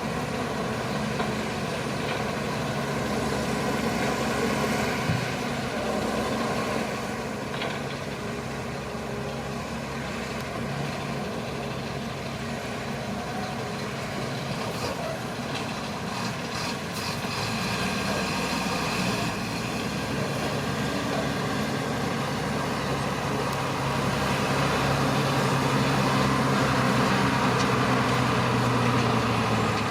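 Shantui crawler bulldozer's diesel engine running steadily while the machine works, with a few knocks around the middle. The engine grows louder over the last few seconds.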